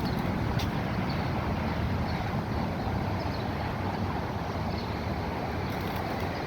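Steady low background rumble of outdoor noise, with faint short high chirps every second or so.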